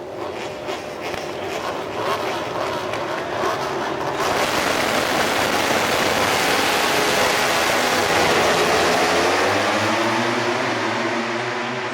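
MotoGP racing motorcycles passing at speed, the sound building for several seconds, at its loudest about two-thirds of the way in, then fading as the engine pitch drops away.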